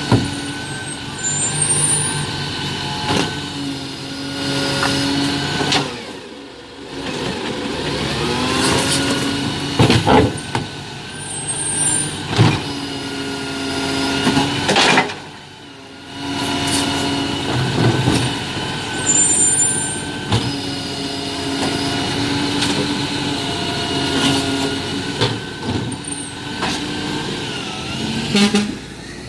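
Garbage truck at work: its diesel engine rises and falls in pitch, air brakes hiss in short bursts about every eight to nine seconds, and knocks and clatter come in between, in a repeating stop-and-go pattern. The engine drops away briefly twice, about six and fifteen seconds in.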